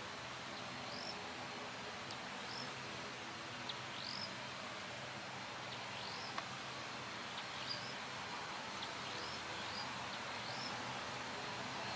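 A bird repeating a short, high, upward-sweeping chirp about once a second over steady outdoor background noise and a faint low hum.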